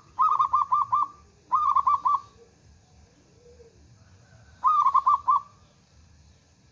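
Zebra dove (perkutut) cooing in three phrases of quick, rolling repeated notes: two phrases in the first couple of seconds and a third about five seconds in.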